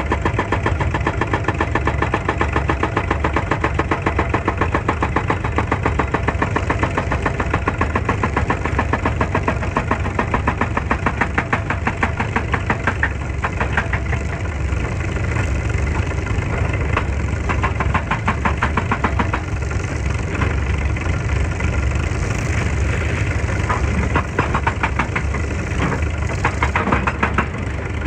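Excavator's diesel engine running steadily, a fast, even throb over a strong low rumble.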